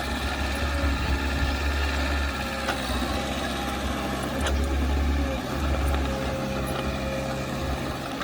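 Diesel engine of heavy earthmoving equipment running steadily, a low drone that swells a little now and then.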